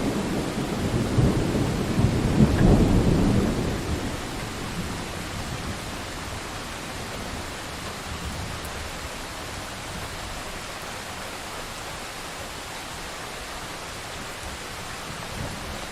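Thunderstorm: a long rolling rumble of thunder over steady rain, dying away about four seconds in and leaving the even hiss of rain falling.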